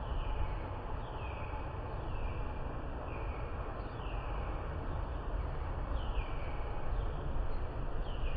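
Steady hiss of rain with a low rumble underneath, and a bird repeating a short falling call about once a second.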